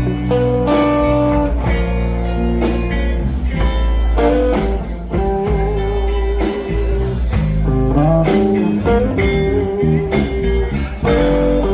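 Blues band music: electric guitar playing held and bent notes over bass and drums.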